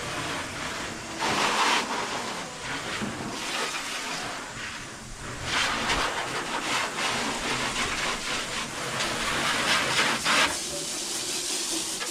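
Heavy rain falling, a steady hiss that swells louder twice.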